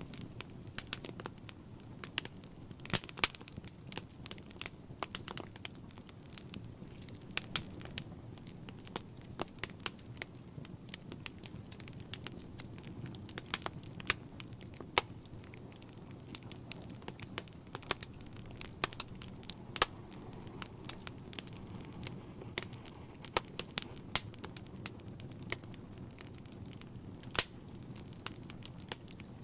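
Wood fire crackling in a fireplace: irregular sharp pops and snaps over a steady low rush of flame.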